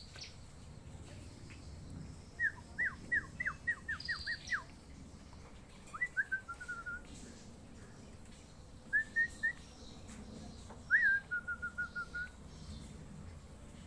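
A bird whistling in short clear phrases. First comes a quick run of about eight downward-slurred notes. Then, about two seconds apart, three shorter phrases follow, each starting on a higher note and ending in a run of quick repeated lower notes.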